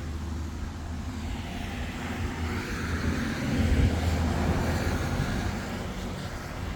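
Engine drone passing by: a steady low hum that swells to its loudest around the middle and then eases off.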